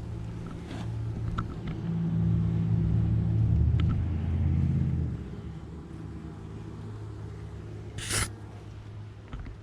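A low, steady rumble with a hum in it, swelling louder between about two and five seconds in, then easing; one short sharp sound near the end.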